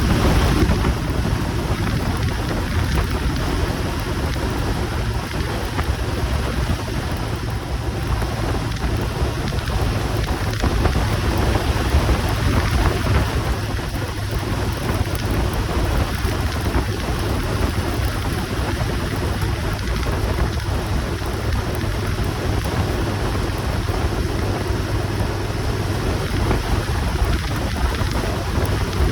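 Steady rumbling wind and road noise on the microphone of a moving motorcycle, with no breaks or distinct events.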